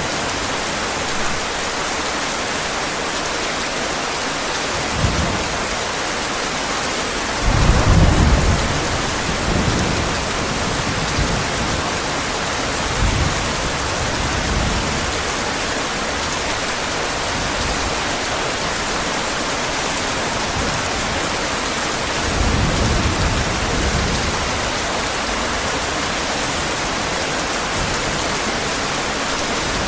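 Steady heavy rain falling, with thunder rumbling low several times, loudest about eight seconds in and again near twenty-three seconds.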